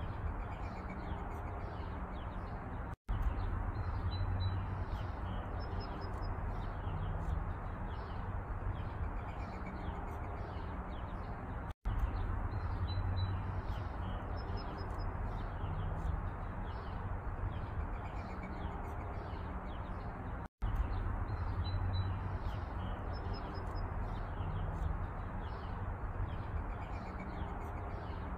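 Small birds chirping over a steady low background rumble. The same stretch of sound repeats about every nine seconds, with three brief cuts to silence where it loops.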